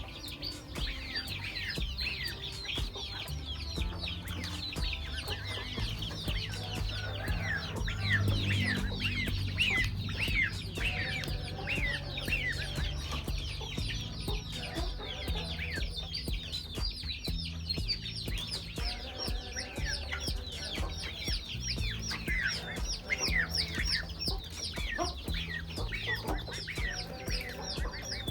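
Chickens clucking over a dense chatter of high, quick, falling chirps, with a low steady rumble underneath.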